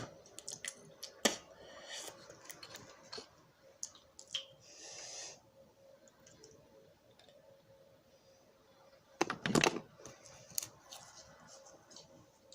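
Handling sounds in a small room: scattered clicks and taps, a short hiss about five seconds in, and a quick burst of louder knocks near ten seconds, over a faint steady hum.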